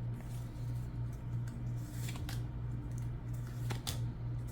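Pokémon card booster pack being handled and opened, its foil wrapper crinkling, with a few short sharp ticks about two seconds in and again near four seconds, over a steady low hum.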